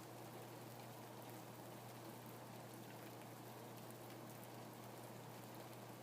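Steady rain falling, with faint scattered drop ticks over an even hiss and a steady low hum underneath.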